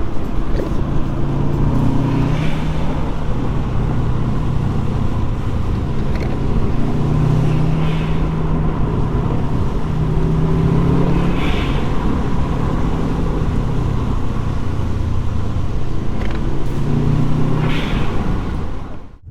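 Subaru Impreza WRX's turbocharged flat-four boxer engine pulling hard on the road, its note rising and falling as it accelerates through the gears. The sound dips sharply for a moment near the end.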